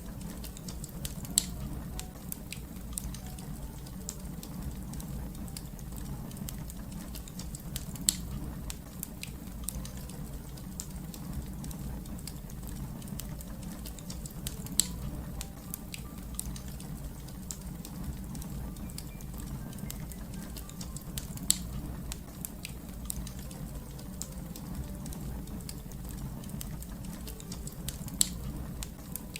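Fireplace fire crackling: a steady low rumble of burning with many small crackles throughout and five sharper, louder pops spaced evenly about every seven seconds.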